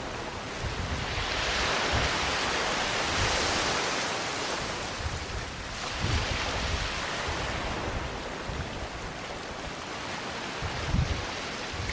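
Small waves washing onto a sandy beach, the surf hiss swelling about a second in and easing off, swelling again around the middle, with low gusts of wind on the microphone.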